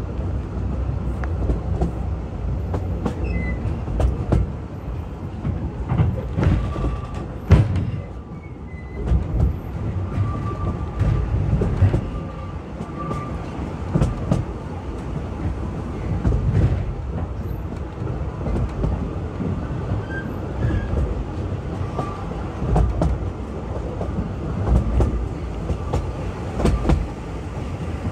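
Narrow-gauge train running along the track: a steady rumble with frequent knocks and clicks from the wheels and running gear, and a faint high squeal that comes and goes.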